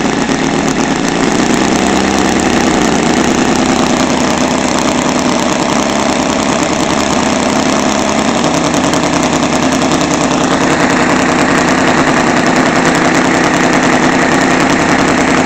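Seidel 7-70 seven-cylinder glow radial model engine running steadily on a test stand, turning a 24x10 propeller on methanol fuel during break-in. About ten seconds in, the engine speeds up slightly and the sound gets a little brighter.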